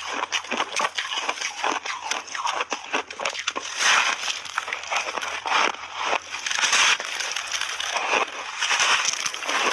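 Chunks of refrozen buckwheat ice being bitten and chewed: rapid, continuous crunching and crackling, with louder crunches about four, seven and nine seconds in.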